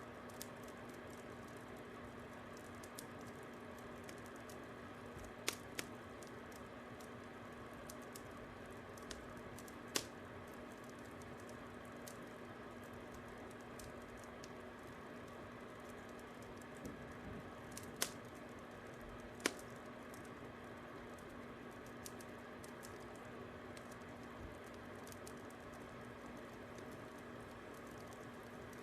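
Fire crackling: a steady low hiss and hum with scattered small ticks, and a few sharp, loud pops spread irregularly through it.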